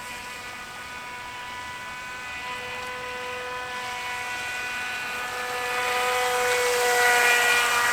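Brushless electric motor of a radio-controlled boat whining at a steady pitch while the boat runs. It grows louder about six seconds in.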